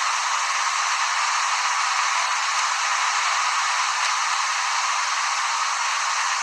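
A steady, even hiss with no pitch and no breaks.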